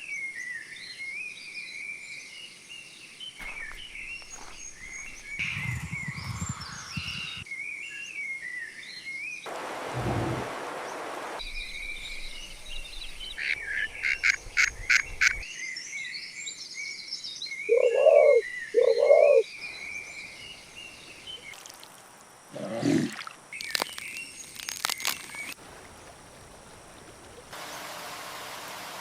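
Rainforest night-style ambience: a steady high chorus of frogs and insects with scattered bird chirps. A quick run of clicking calls comes about halfway through, then two loud calls, the loudest sounds here, and a lower call a few seconds later.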